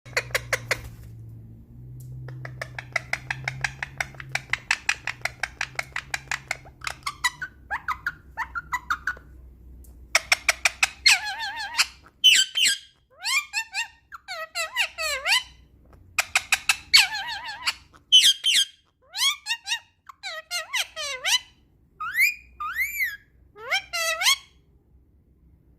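Ringneck parrot talking: runs of rapid chattering trills at first, then high phrases that glide up and down in pitch, coming in bursts with short pauses.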